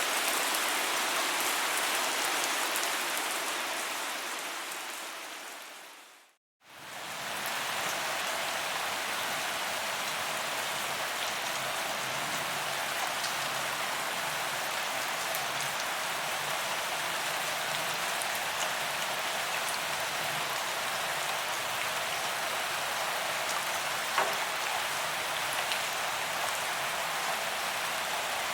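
Steady rain falling, an even hiss of drops with scattered louder ticks. About six seconds in it fades out to a moment of silence and fades back in, then runs on steadily, with one sharper drop-like tick near the end.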